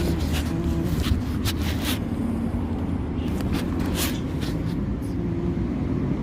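Steady low rumble with scattered short rustles and clicks over it.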